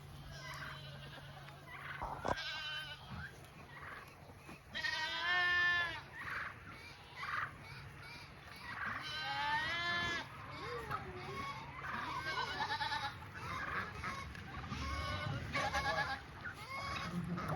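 Goats bleating: several wavering calls, the loudest about five seconds in and again just before ten seconds, with shorter ones after. A single sharp knock about two seconds in.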